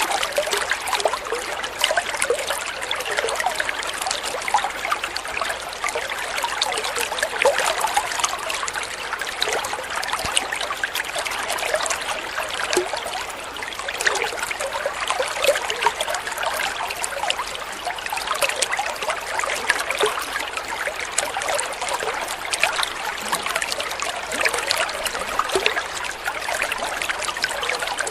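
Water flowing and trickling steadily, a continuous bubbling splash with many small flickers and no pauses.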